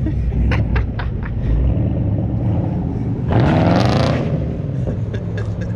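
A 2012 Chevrolet Camaro SS's 6.2-litre V8 running, then revving up hard about three seconds in, its pitch climbing quickly before dropping back to a low rumble. A few sharp clicks sound in the first second and a half.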